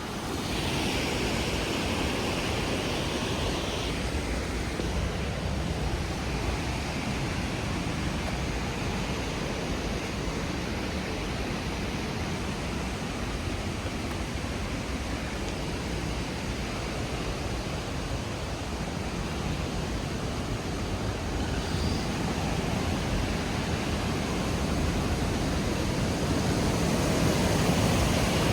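Steady rushing noise of fast-flowing water, swelling slightly near the end.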